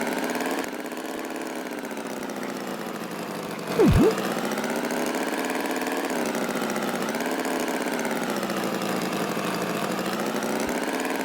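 Cartoon tractor engine running steadily, its pitch drifting gently up and down. About four seconds in there is a short, louder sound effect that swoops down in pitch and straight back up.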